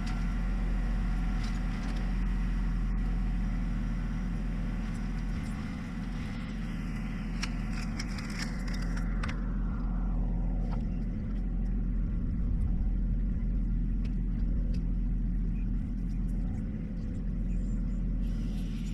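John Deere 1025R sub-compact tractor's three-cylinder diesel engine running steadily with a low hum.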